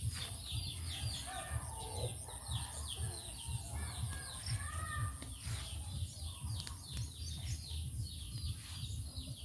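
Small birds chirping rapidly and continuously, several short high chirps a second, over a steady high-pitched whine and a low rumble. A few softer wavering calls come in during the first half.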